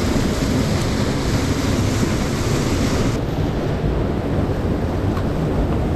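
Steady rushing of a mountain stream. About three seconds in, the upper hiss drops away abruptly.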